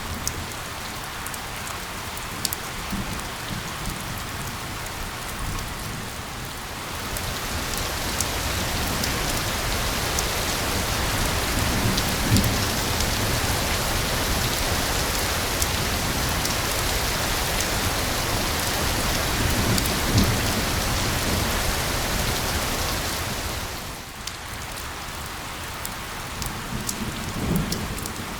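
Steady rain hiss blended with white noise. The hiss swells louder and brighter about seven seconds in and drops back around twenty-four seconds, with a few brief low thumps underneath.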